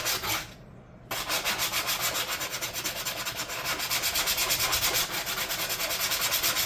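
Sanding on a template edge: rapid, evenly spaced rubbing strokes, pausing briefly about half a second in and starting again about a second in.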